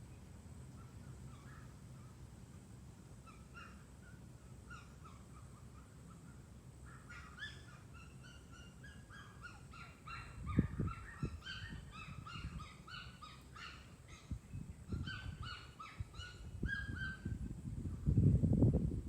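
Small birds chirping and twittering in quick, repeated short high notes, sparse at first and busier from about seven seconds in. Low thumps come in from about ten seconds, the loudest near the end.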